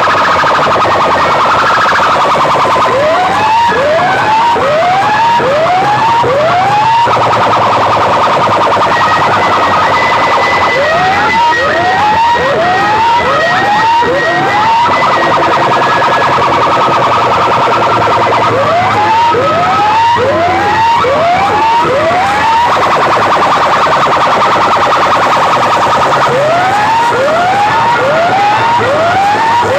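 Loud sound-system speakers playing an electronic siren effect: runs of about five quick rising whoops, repeated every several seconds over a steady high tone.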